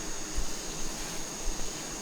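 Steady outdoor hiss with a thin, steady high-pitched whine over it. Wind bumps on the microphone make a low rumble twice, about half a second in and near a second and a half.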